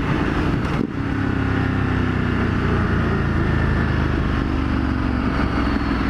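2015 Ducati Multistrada 1200S's L-twin engine running through a full Termignoni exhaust with the baffle removed, a steady note with a brief drop in level about a second in.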